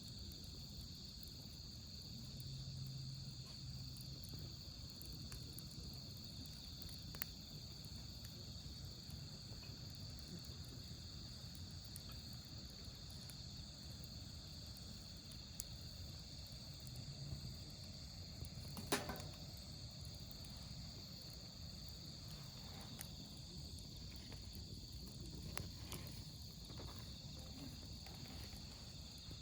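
Wood fire burning with scattered small crackles and one sharper pop a little after halfway, over a steady high chirring of autumn crickets.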